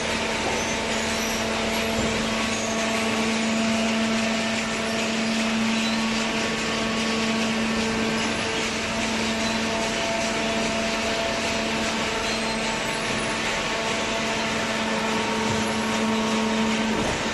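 Hydraulic cardboard baler running: a steady machine hum with a constant low tone and a broad whirring noise.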